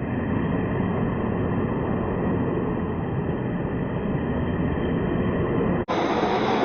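Large-scale RC trucks running on dirt: a steady rushing, rumbling noise without a clear motor tone. It cuts off sharply near the end and resumes at once, brighter.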